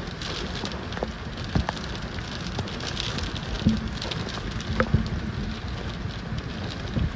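Heavy wind-driven rain from a severe thunderstorm, a steady hiss dotted with many sharp taps and a few louder knocks.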